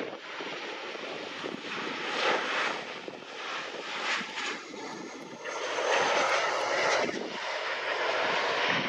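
Jet airliner engines running, a rushing noise that swells and fades and grows louder about five and a half seconds in.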